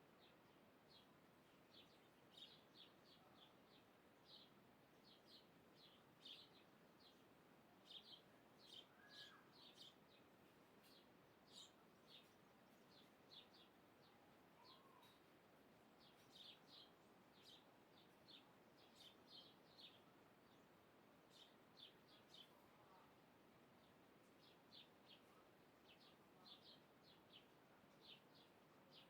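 Faint birds chirping: many short, high chirps in irregular clusters, with a few softer lower calls, over a low steady hiss.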